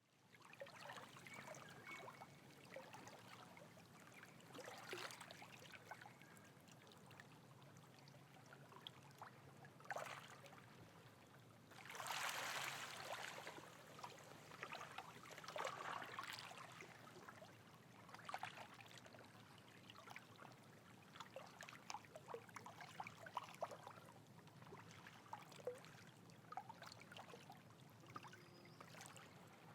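Faint running water trickling, swelling in uneven surges, with scattered small sharp clicks.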